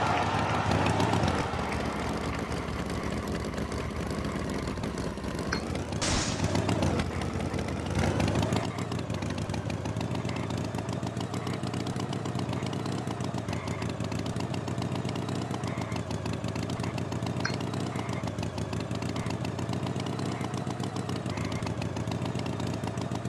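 A vehicle engine running steadily, with two brief louder sounds about six and eight seconds in.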